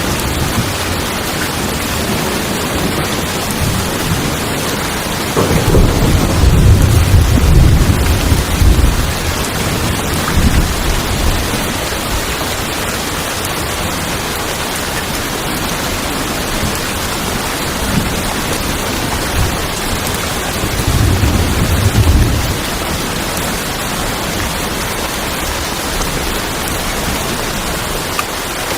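Steady rain drumming on tin roofs, with two low rolls of thunder, a long one a few seconds in and a shorter one about two thirds of the way through.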